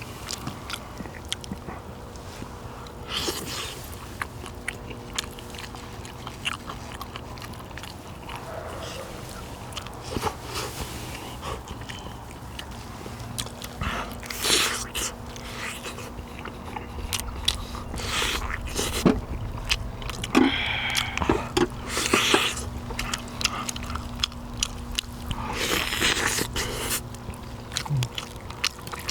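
People eating pork neck-bone soup: chewing and biting meat off the bones, with many irregular short clicks and a few louder smacking spells over a steady low hum.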